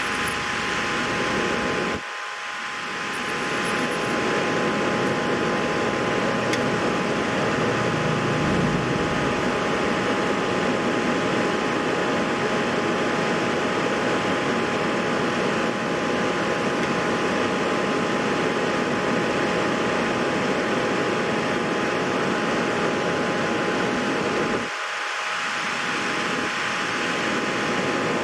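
Steady fan-like noise, an even hiss with a few steady whining tones over it, dropping briefly about two seconds in and again near the end.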